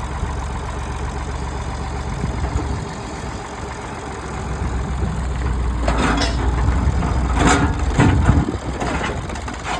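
Old tractor's engine running steadily under load while a ripper blade pulls tree roots. About six seconds in, a run of sharp cracks and knocks breaks in over the engine.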